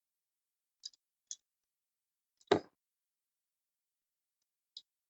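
Handling noise at a work surface: a few light, sharp clicks and one louder knock about two and a half seconds in, with silence between.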